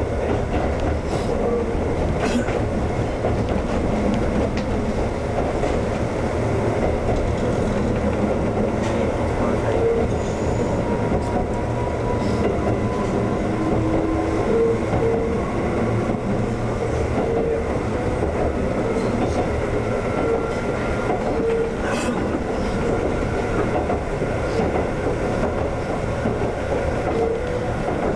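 Former Tōkyū 7000-series electric train running along the track, a steady rumble with occasional sharp clicks as the wheels pass over rail joints.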